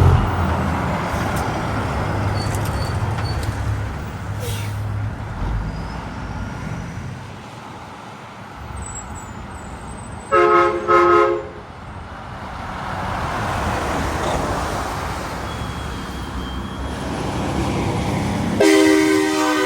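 Highway traffic passing, with a vehicle air horn sounding two short blasts about halfway through and a longer multi-tone horn blast starting near the end.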